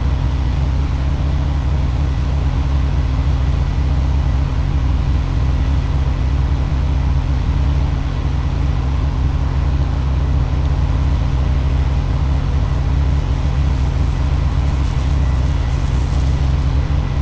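Pressure washer's engine running steadily at a constant pitch, with a brief faint hiss near the end.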